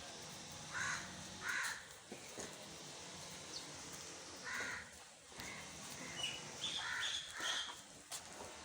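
Crows cawing: several short, harsh caws at irregular intervals over a faint steady outdoor background.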